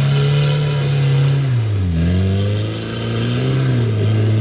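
Rock crawler's engine revving hard on a rock climb. The revs drop sharply about two seconds in, then pick back up.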